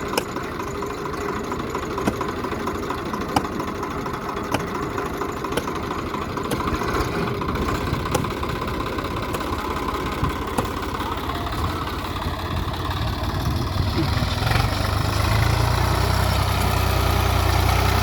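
Swaraj 744 tractor's three-cylinder diesel engine running, with scattered sharp clicks. About three quarters of the way through, its note grows louder and deeper.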